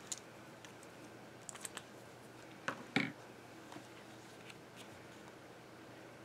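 A few light clicks and taps of art supplies being handled on a tabletop, with the loudest pair of knocks about three seconds in.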